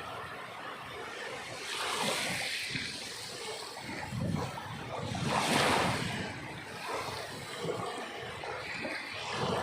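Sea surf: waves swelling and washing in every few seconds, the loudest surge about halfway through.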